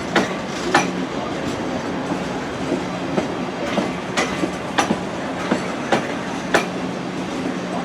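Train running slowly on the rails, its wheels giving a series of sharp clicks, one or two a second, over rail joints or points, above a steady low hum.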